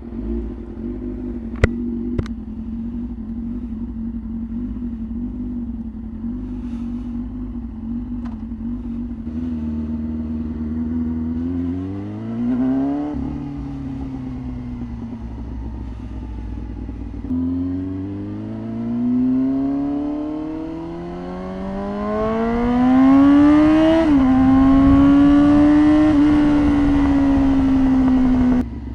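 Yamaha R6 inline-four motorcycle engine running steadily at low revs after a couple of sharp clicks, then revving up twice under acceleration with a drop in pitch at each upshift, and holding a higher steady pitch near the end with wind hiss rising as speed builds.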